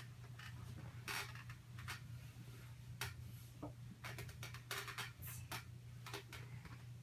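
Small plastic toy figures being handled and set into a plastic toy truck playset: scattered light clicks and taps over a steady low hum.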